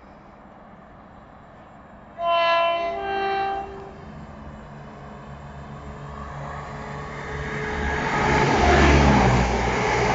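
A diesel train sounds its two-tone horn about two seconds in, a higher note then a lower one. It then approaches and runs past, its engine and wheel rumble growing steadily louder toward the end.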